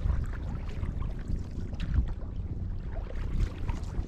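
Wind buffeting the microphone in a low rumble, with small splashes and knocks of water from the canoe.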